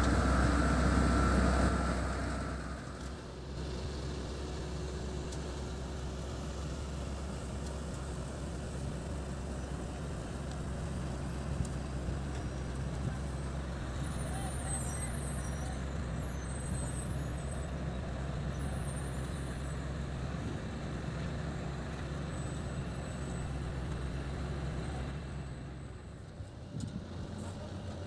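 Heavy diesel road-construction machinery running, a steady engine hum, loudest for the first two seconds and then settling lower.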